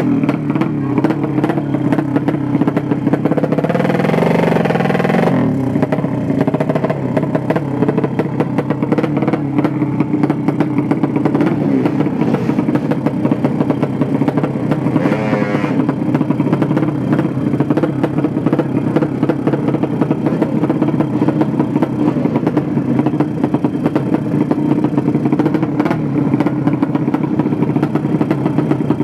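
Racing motorcycle engine running loud and rapid-firing, with brief surges of revs about four seconds in and again around fifteen seconds in.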